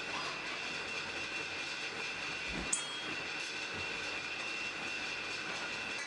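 Forge fire burning steadily: an even rushing noise with a faint steady high tone, and one sharp click about halfway through.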